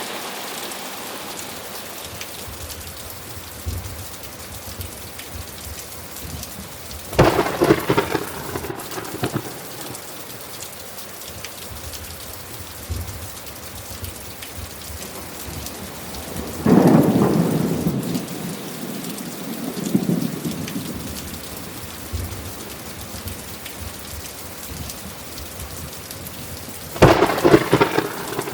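Steady rain falling, broken by three claps of thunder: one about seven seconds in, one about seventeen seconds in that rolls on for a few seconds, and one near the end.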